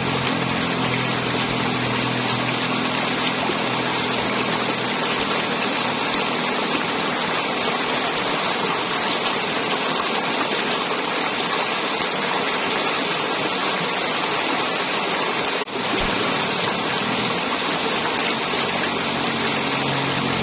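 River water flowing and gurgling over rocks, a steady rushing. About three-quarters of the way in there is a brief dip in level.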